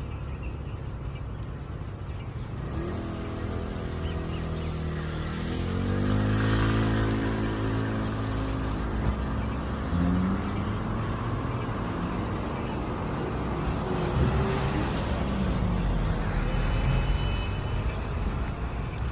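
A motor vehicle's engine running with a low rumble, its pitch rising around five or six seconds in and then settling.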